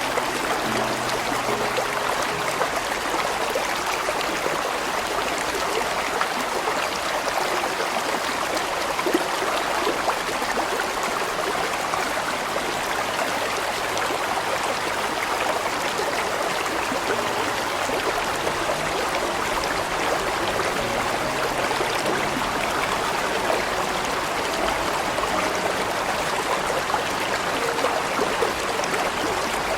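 Large stream flowing, a steady, dense rush of water with no breaks.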